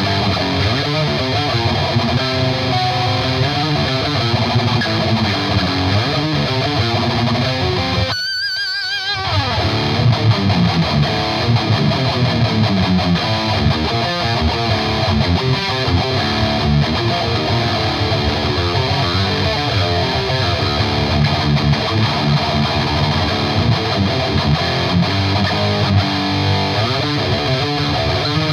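Distorted electric guitar, played through a Marshall 4x12 cabinet impulse response, chugging heavy metal riffs. About eight seconds in the low end drops out for roughly a second while a single held note is shaken with wide vibrato, then the riffing resumes.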